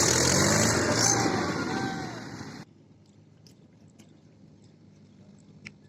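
Tractor's diesel engine running loudly, cut off abruptly about two and a half seconds in, leaving a quiet background with a few faint clicks.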